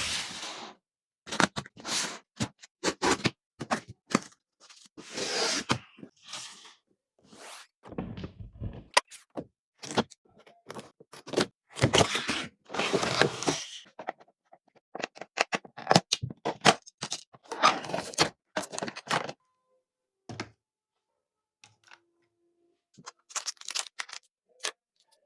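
Packaging being handled and opened: a busy run of scrapes, knocks and clicks with longer rustling, sliding noises in between, thinning to a few scattered clicks in the last few seconds.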